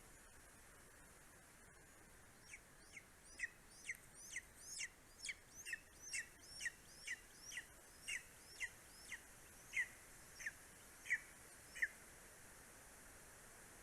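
Greater spotted eagle calling: a series of about twenty short, falling yelps, roughly two a second, starting a few seconds in and stopping shortly before the end, over a faint steady hiss.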